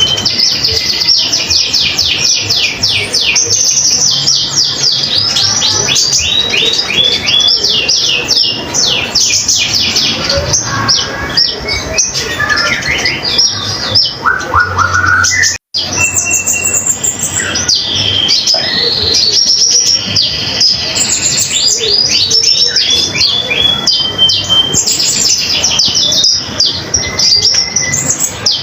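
Konin songbird singing continuously in rapid, chattering strings of short high notes that sweep downward, phrase after phrase, with a momentary break about halfway through.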